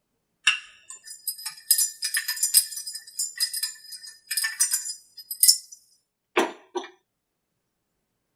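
Small metal parts and tools clinking and jingling irregularly while the mufflers are unbolted from a DLE 60 Twin gas engine, followed by two duller knocks near the end.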